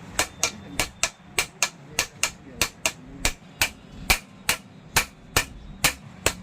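Hammer striking an angle grinder's gear head in a steady run of sharp blows, about three a second, during the head and gear change.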